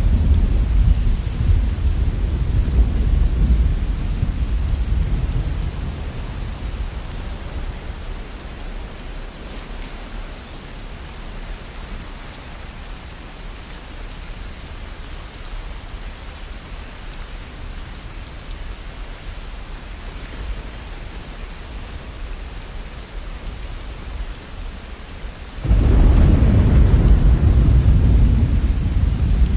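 Heavy rain falling steadily, with thunder: a deep rumble fading away over the first several seconds, then a sudden loud rumble of thunder breaking in near the end.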